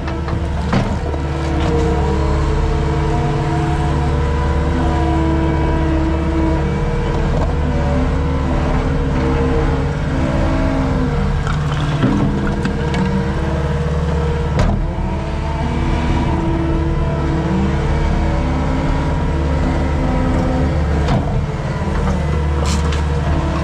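Skid steer's diesel engine running steadily under working load, its pitch shifting as the hydraulics work, with a few sharp knocks from the machine and its bucket.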